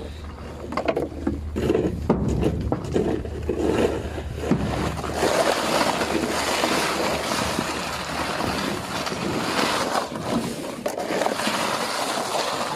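A tool striking and chipping hard ice crusted onto a ship's lines and deck fittings: a run of sharp knocks over the low hum of the ship. After about five seconds a steady rushing noise takes over.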